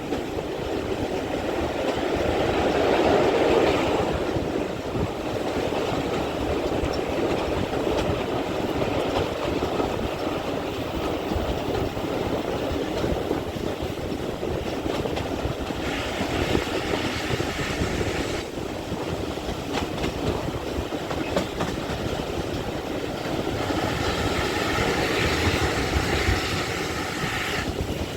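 Steam-hauled passenger train running along the track, a steady rolling rumble of wheels on rails.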